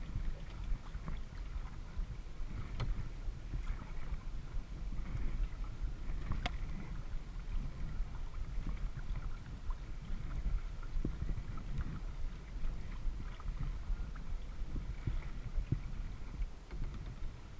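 Water splashing and lapping around a kayak, with a steady low rumble and scattered small ticks, and one sharp click about six seconds in.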